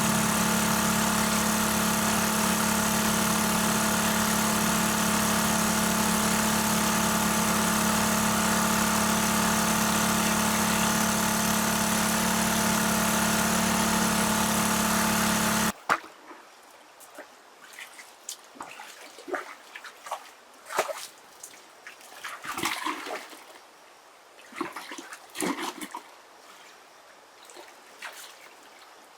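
A small engine running steadily at a constant speed, which cuts off abruptly about two-thirds of the way through. Then quieter, irregular water splashes and trickling.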